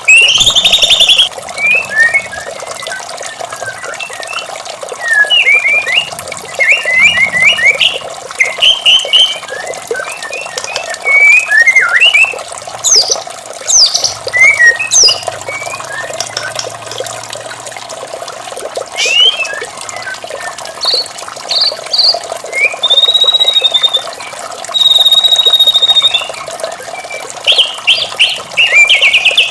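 White-rumped shama singing a varied song of quick whistles, chirps and trills, with two long held whistles about three-quarters of the way through. Under it runs a steady rush of water.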